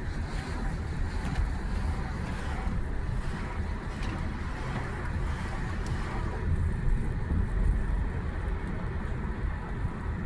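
Steady low rumble of a moving road vehicle, with no horn or distinct events.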